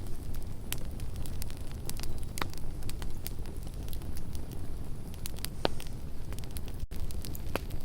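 Wood campfire burning with a steady low rumble and irregular sharp crackles, a few louder pops scattered through.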